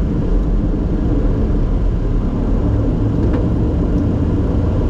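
Steady loud rumble inside the cockpit of a Bombardier Challenger 604 business jet, from its two rear-mounted GE CF34 turbofan engines and the airflow around the cabin.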